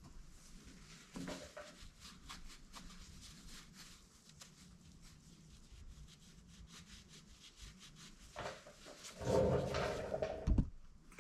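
Light clicking and rubbing of chainsaw parts being handled during cleaning. Near the end comes a louder, muffled sound lasting about a second and a half.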